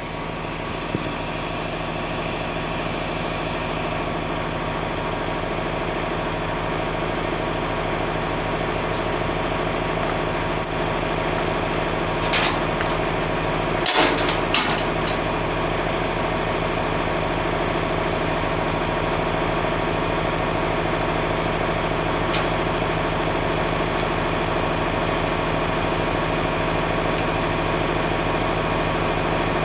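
An engine running steadily, getting a little louder over the first few seconds, with a few sharp clanks about halfway through.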